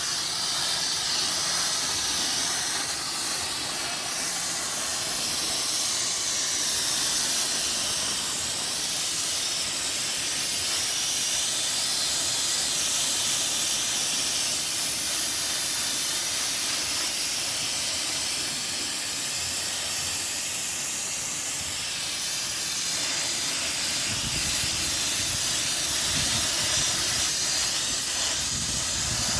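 Sandblaster blasting sand at an engine block: a loud, steady hiss of compressed air and abrasive from the nozzle, with a low rumble joining in for the last few seconds.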